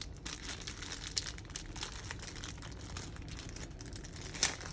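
Crinkling and small irregular clicks of plastic parts and packaging being handled, with one louder click near the end.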